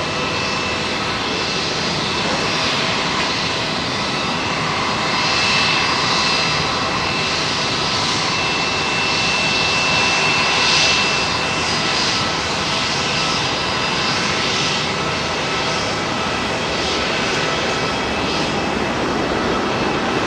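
Passenger aircraft engines running: a loud, steady rushing noise with a thin high whine, swelling slightly in the middle.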